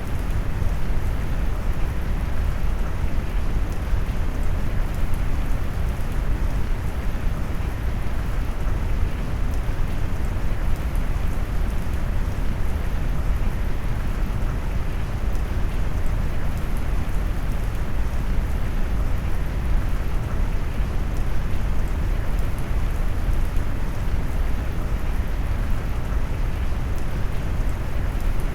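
Steady rain noise mixed with brown noise: a continuous, deep, low-weighted hiss of rain that never changes.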